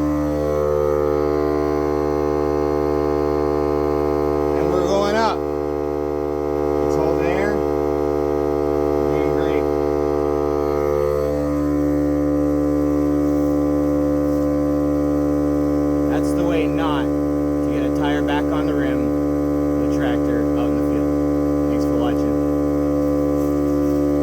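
Milwaukee portable air compressor running steadily as it inflates a tractor tire, a loud motor hum that shifts pitch at the start and again about eleven seconds in.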